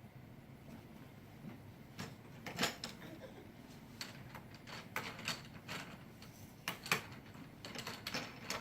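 Irregular knocks and clacks, about a dozen in six seconds starting about two seconds in: a baby banging on the small corner table he pulls himself up on.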